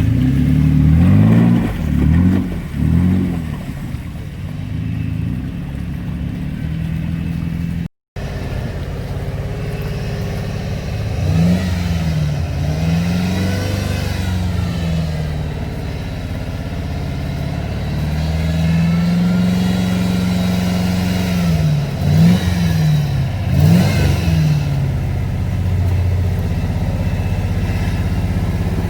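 Off-road vehicle engine working on a trail, revving up and down over and over in short blips and longer swells as the throttle is worked. The sound cuts out completely for a moment about a quarter of the way through.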